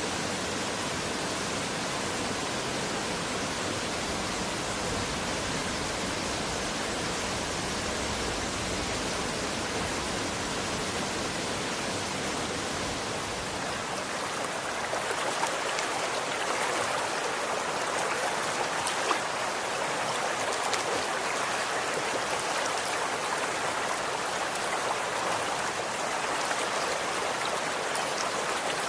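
Running water, a steady rushing noise. About halfway through it turns lighter and splashier, with fine pattering drops.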